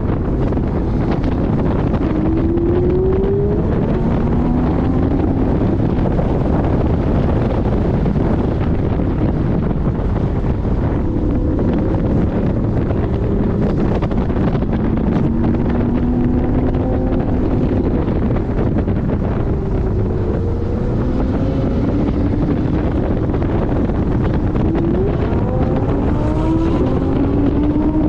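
Porsche 718 Boxster GTS engine driven hard on a race track, its note rising and falling several times as it revs up and the gears change. Heavy wind noise on the microphone.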